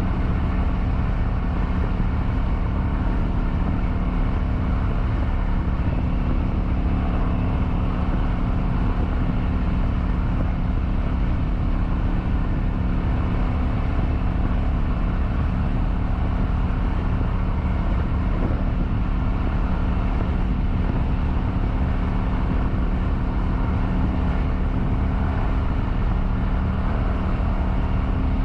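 Kawasaki Vulcan 900's V-twin engine running at a steady cruise, its pitch holding level, under a constant rush of wind and road noise.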